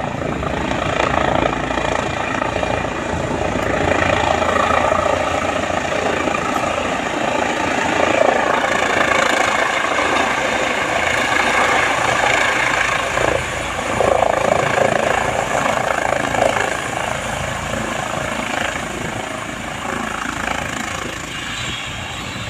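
Helicopter running close by: a loud, steady engine and rotor noise, a little louder through the middle and easing near the end.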